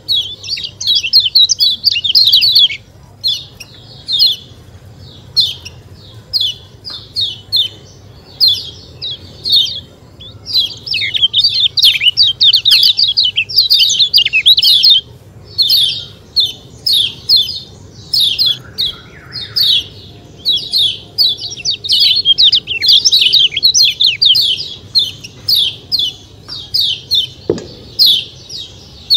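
Kecial kuning (lemon-bellied white-eye) calling 'ciak ciak' in fast runs of high, quick chirps, broken by short pauses.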